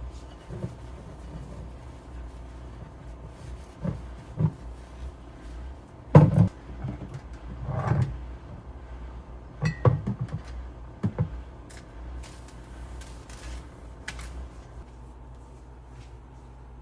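Household objects being handled: a scatter of short knocks and clunks, the loudest about six seconds in, with a longer scrape near eight seconds, over a low steady hum.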